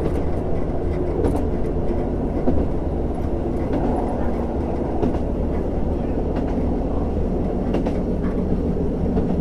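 Diesel railcar running, heard from inside the cabin of a JR Hokkaido KiHa 150 series car: a steady drone from its diesel engine and wheels, with an occasional sharp click from the track.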